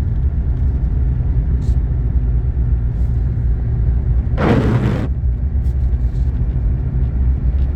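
Steady low road rumble of a four-wheel-drive vehicle driving on a snowy road, heard from inside the cabin. About four and a half seconds in, there is a brief rush of noise lasting under a second.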